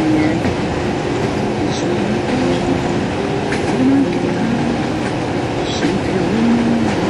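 Steady rumble of a moving passenger train heard from inside the carriage, with a few short knocks.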